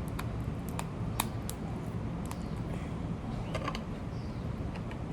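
Crab and lobster shells being cut and picked apart with a shell tool: a few sharp, irregular clicks and small cracks over a low steady hum.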